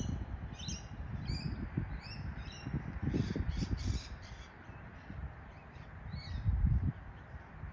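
Birds calling: a quick series of short high calls, then a few harsher, rasping calls, with low rumbling on the microphone underneath.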